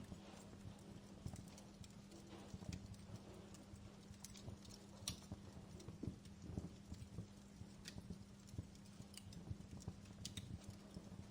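Wood fire burning in a fireplace, crackling with irregular pops and snaps over a low steady hum. A few sharper pops come about halfway through and near the end.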